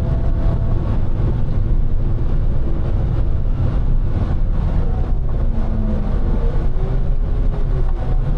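A large snow-plowing loader's diesel engine running steadily under load, a deep continuous rumble heard from inside the cab.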